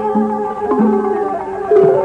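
Thai classical ensemble playing, with the plucked chakhe (Thai floor zither) carrying held notes over light percussion.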